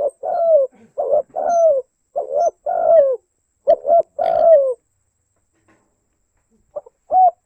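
Spotted dove (tekukur) cooing: a run of repeated coos, each slurring down in pitch at the end. The bird stops about four and a half seconds in and starts again near the end.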